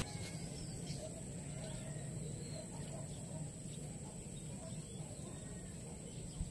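Faint outdoor ambience: scattered short, distant bird calls over a low rumble and a steady high-pitched tone, with one soft knock near the end.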